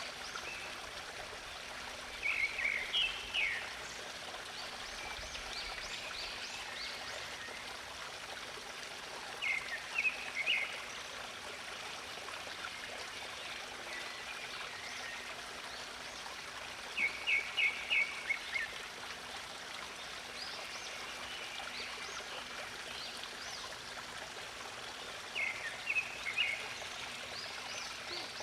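Steady rush of a flowing stream, with a songbird singing short phrases of quick chirps about every eight seconds, four times over, and fainter high chirps in between.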